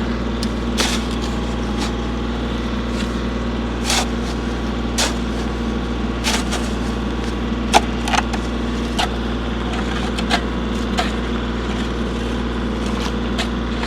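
An engine idles steadily. Irregular sharp scrapes and clicks of a shovel digging into gravelly dirt come through over it.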